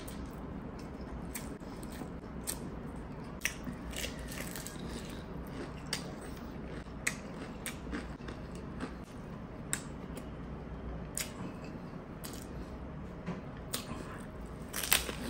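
Close-miked chewing of crunchy food, with irregular sharp crunches about once a second and a louder burst of crunching near the end.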